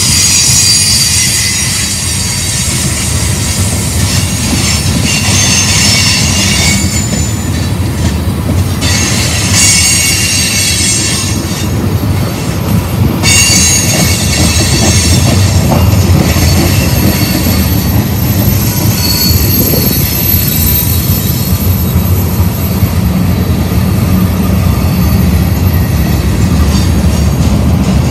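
Manifest freight train rolling past with a steady heavy rumble. Wheel flanges squeal in thin high tones that come and go.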